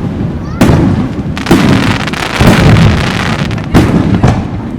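Aerial fireworks shells bursting in quick succession: about five loud booms roughly a second apart, each trailing off in a rumbling echo, with crackling among them.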